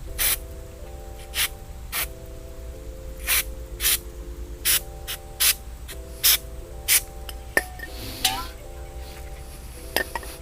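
Repeated short bursts of spraying hiss, about a dozen at irregular intervals, over soft background music.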